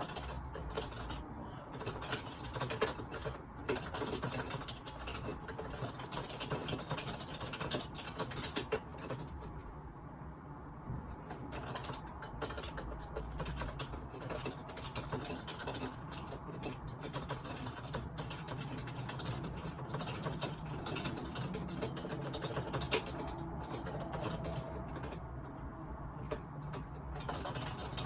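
Computer keyboard typing: a steady run of quick, irregular key clicks over a low background hum, picked up by a phone microphone.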